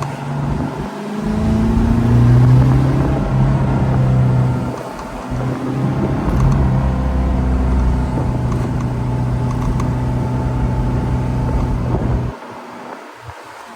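1972 Porsche 914's engine pulling under acceleration, heard from the driver's seat, its note rising over the first two seconds. It dips briefly about five seconds in, as at a gear change, runs steadily, then drops off sharply about a second before the end as the throttle is lifted.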